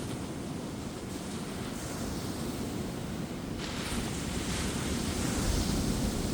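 Ocean waves breaking and washing up a beach: a steady surf hiss and rumble that surges twice, the second surge about halfway through and louder, building towards the end.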